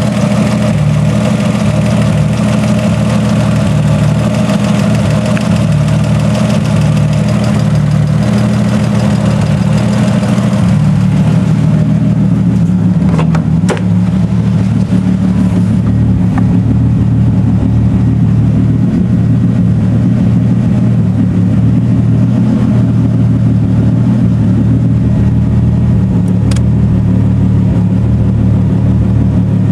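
Freshly rebuilt Nissan RB25DET turbocharged straight-six running at a steady idle, with the ticking noise the owner is asking about after the rebuild. The sound turns duller about twelve seconds in, with a couple of brief sharp clicks.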